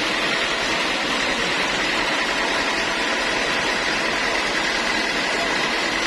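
Sawmill machinery running steadily: a constant mechanical drone with a thin, steady whine over it.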